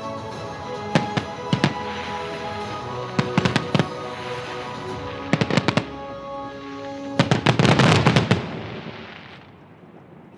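Festive fireworks salute going off over music: sharp bangs come in small clusters, then a dense crackling barrage about seven seconds in. The bangs and the music then fade away.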